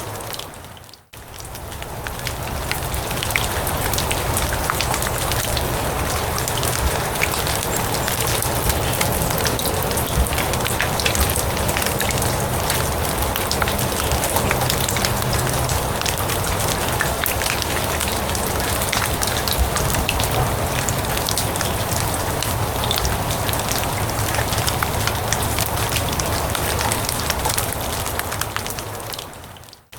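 Steady rain falling on grass and leaves, a constant hiss scattered with countless sharp drop ticks. It dips out briefly about a second in and again near the end.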